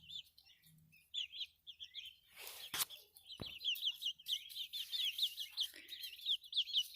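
Young chickens peeping, a quick run of short high chirps that thickens into a steady chatter in the second half. A couple of sharp clicks sound about three seconds in.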